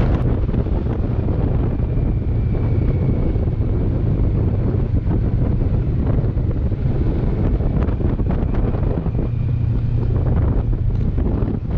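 Heavy wind buffeting on the microphone while riding a Kawasaki Versys 650 motorcycle at speed, a steady deep rumble with the bike's running underneath.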